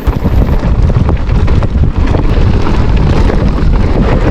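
Wind buffeting the microphone of a bicycle riding a rough dirt track, with many short rattles and knocks from the bike over the uneven ground.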